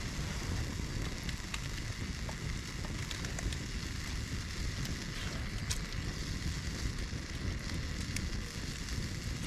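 Wood campfire burning, with scattered sharp crackles and pops over a steady low rush.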